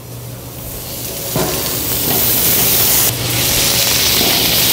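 Chicken pieces sizzling in a hot sauté pan as olive oil is poured in. The sizzle grows louder over the first couple of seconds, then runs steady.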